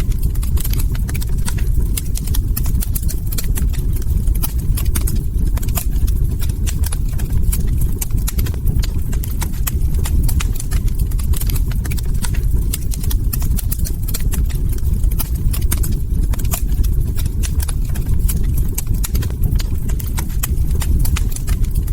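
Log fire crackling: a dense, irregular run of sharp pops and snaps over a steady low rumble.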